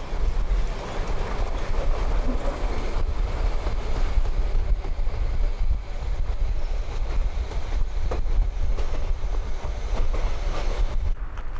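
Metre-gauge passenger coaches of the Harz Narrow Gauge Railways rolling past on a curve: a steady low rumble and wheel noise on the rails, with a few sharp clicks about eight and ten seconds in.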